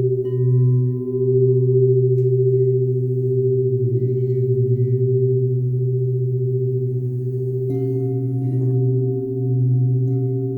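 Crystal singing bowls ringing in long, overlapping sustained tones with a slow wavering pulse. A new, higher tone comes in about eight seconds in.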